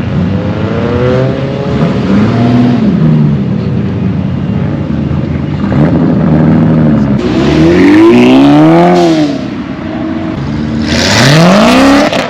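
A car engine revving hard several times, its pitch climbing and falling with each blip; the loudest revs come about eight seconds in and in a steep climb near the end.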